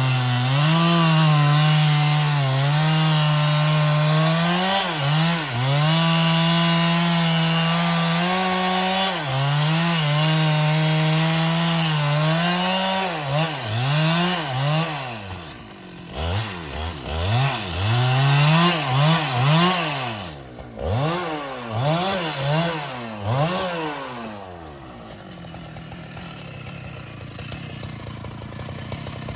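Husqvarna 395XP two-stroke chainsaw cutting wood under load for about the first thirteen seconds, then revved up and down in repeated throttle blips, settling to a low idle about twenty-five seconds in.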